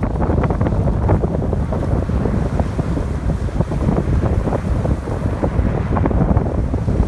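Strong wind buffeting the microphone with a heavy, gusty low rumble, over the wash of ocean waves breaking on the shore.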